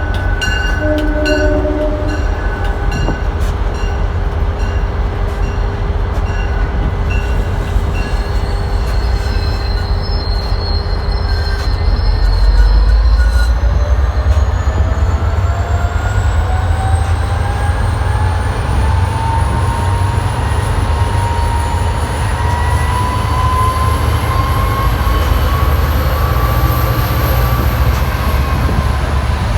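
Train running on the rails with a steady low rumble. A horn chord cuts off about two seconds in. From about twelve seconds a high whine rises slowly in pitch, levels off and dips slightly near the end.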